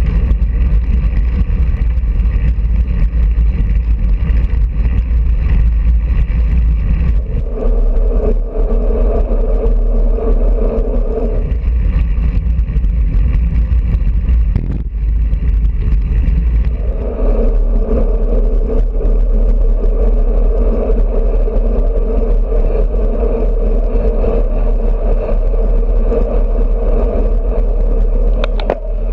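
Wind rushing over a bike-mounted GoPro's microphone while riding at speed, a loud steady rumble, with a steady hum that drops out for a few seconds twice.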